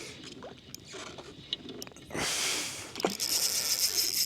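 Fishing reel working against a hooked bream: a short burst of noise about two seconds in, then a high, buzzing mechanical whir from the reel through the last second or so.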